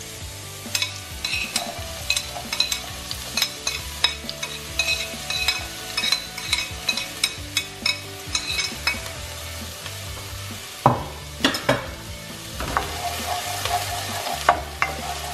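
Chopped garlic and onion sizzling in hot coconut oil in an enamel pan, with a metal teaspoon clicking repeatedly against the plate and pan as it scrapes them in. A couple of louder knocks come about two thirds of the way through, then a wooden spoon stirring them.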